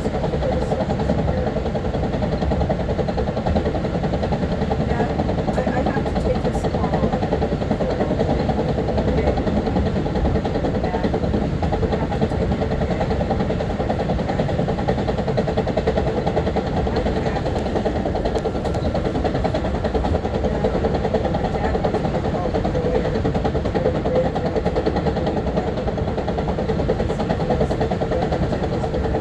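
Interior sound of a Long Island Rail Road M3 electric commuter railcar: a steady low rumble with a constant mid-pitched hum, unchanging throughout.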